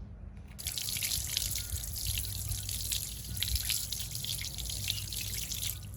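Water running and splashing with a crackling hiss that starts about half a second in and cuts off just before the end.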